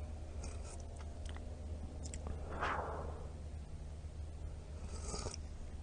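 Quiet eating and drinking sounds: a person chewing and sipping hot tea, with a louder sip or slurp about two and a half seconds in.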